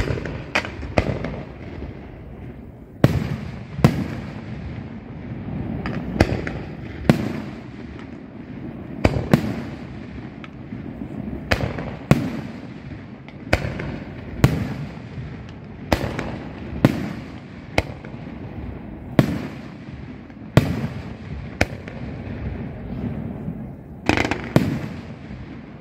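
Fireworks display: aerial shells bursting one after another at uneven intervals, about one sharp bang a second, with a continuous noisy wash between the bangs.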